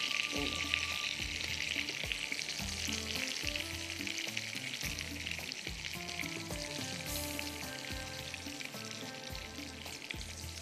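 Egg-coated chicken kababs shallow-frying in oil on a tawa: a dense, steady crackling sizzle that slowly grows quieter.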